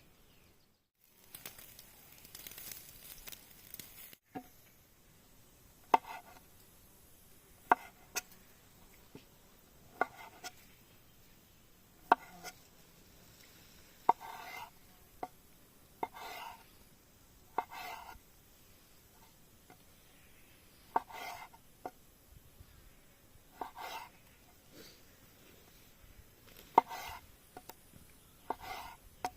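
Food being cut with a knife: sharp knocks of the blade and short scraping cuts, one every second or two.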